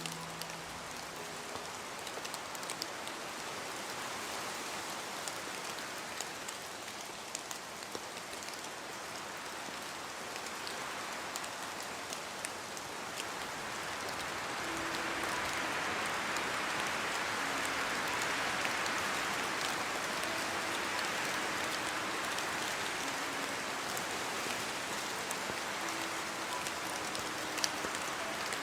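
Steady rain falling, with scattered single drops ticking, growing heavier about halfway through.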